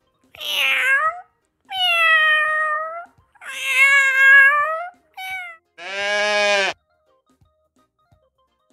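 Domestic cat meowing: three long meows and a short fourth one in quick succession. About six seconds in comes a single lower, buzzy sheep bleat, with faint regular ticking underneath.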